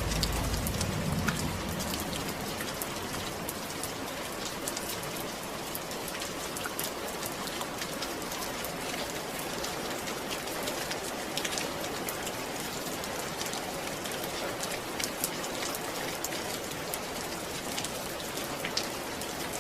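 Steady rain falling, an even hiss dotted with the ticks of individual drops striking a surface. A low rumble underneath fades out in the first couple of seconds.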